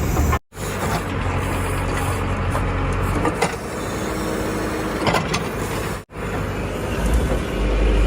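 Heavy diesel machine engine running steadily, broken twice by a brief total gap, with a few light clicks and knocks.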